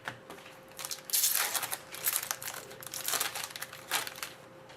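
Crinkling of a hockey card pack's wrapper being handled and opened: a dense run of rustles for about three seconds, starting about a second in.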